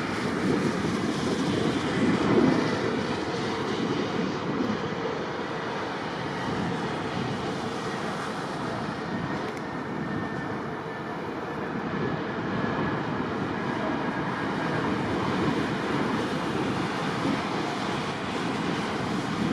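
Steady roar of an Airbus A320 and the airport machinery around it during de-icing, with no separate events standing out.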